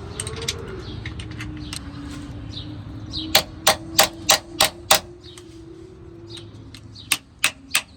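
Power drill running steadily while a screw refuses to go in, with two runs of sharp, evenly spaced clicks at about three a second, a few seconds in and again near the end.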